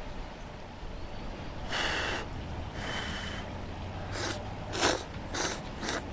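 A person's breath noises: two longer breaths, then four quick, sharp breaths through the nose.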